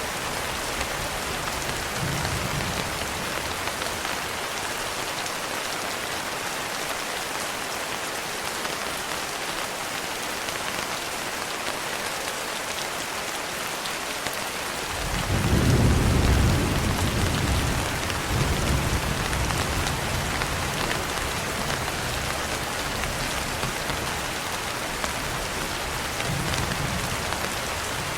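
Steady rain pattering on a window, with a low roll of thunder swelling about halfway through and rumbling on for several seconds; fainter distant rumbles come near the start and near the end.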